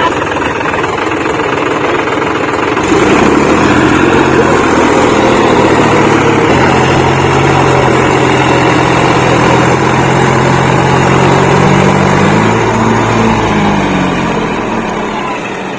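Tractor diesel engines running loud and steady; about a dozen seconds in, the engine note rises briefly and then falls back.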